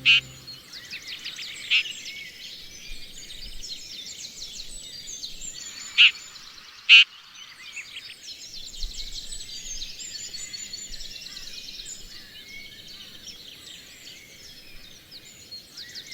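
A chorus of many songbirds singing at once, busy chirps and trills throughout, with a few short, loud calls standing out over it: one near the start, one about two seconds in, and two close together around six and seven seconds.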